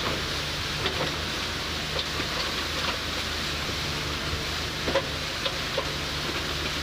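An engine running steadily with a low hum under a constant rushing noise, and a few light knocks now and then.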